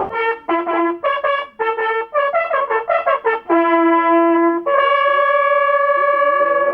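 Hunting horn blown at the start of a driven shoot. The call moves between two notes in a quick rhythm of short blasts, then settles on a long lower note and ends on a long held higher note.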